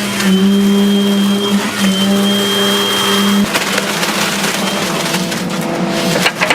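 Hydraulic excavator running under load, a steady engine hum with a thin high hydraulic whine; the engine note drops about three and a half seconds in, and a few sharp knocks sound near the end.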